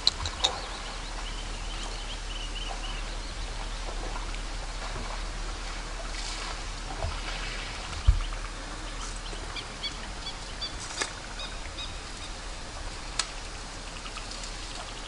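Outdoor natural ambience with birds calling in runs of short repeated high notes, over a steady low background hum. A few sharp clicks and one loud low thump about eight seconds in break through.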